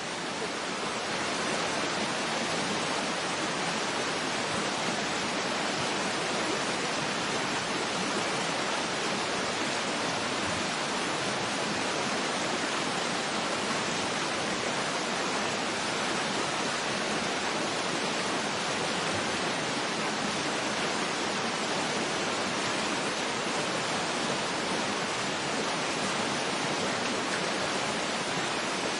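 Waterfall rushing in a steady, even wash of water noise with no breaks, after a slight dip in level right at the start.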